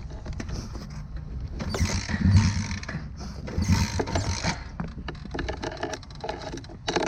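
Pit bike being kick-started twice, the engine turning over without catching, then a run of quick mechanical clicking and rattling.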